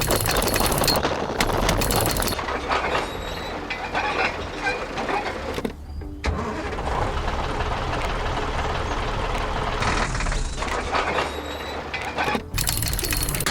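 Heavy construction-vehicle engine sound effects: a steady rumbling run with dense mechanical noise, breaking off briefly about six seconds in.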